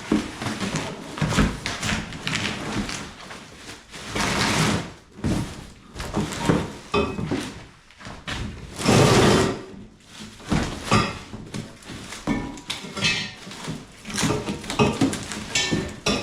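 Cardboard box and plastic packaging being rustled and handled while exhaust parts are unpacked, with scattered knocks. One longer, louder rustle comes about nine seconds in.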